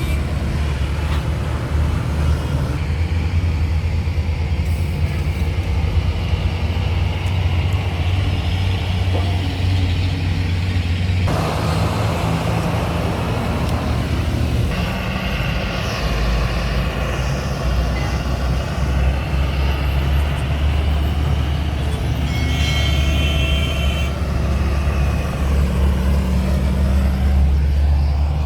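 A vehicle engine idling with a steady low drone, with road traffic noise over it. The sound shifts abruptly a few times.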